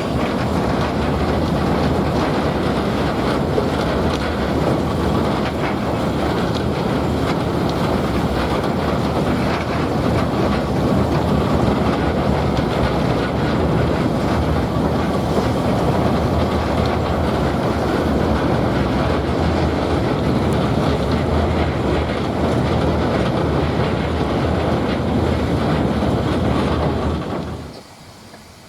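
A train running along the railway line: loud, steady running noise that cuts off suddenly near the end.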